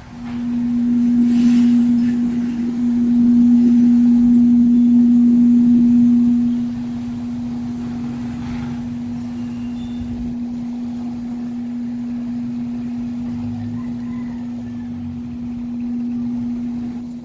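A steady low hum on a single pitch. It is loud for about the first six seconds, drops to a quieter level, and stops abruptly at the end.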